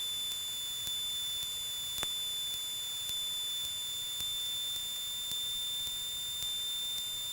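A steady high-pitched electronic whine in the Cessna 172's cockpit intercom audio, holding one pitch, with faint regular ticks about twice a second.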